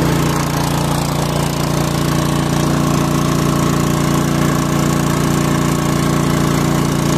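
Engine running steadily at a constant speed, a low, even hum with no change in pitch or loudness.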